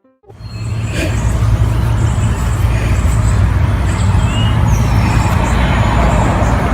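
Loud, steady low rumble with an even rushing noise over it, like a moving vehicle's road noise, setting in suddenly just after the start.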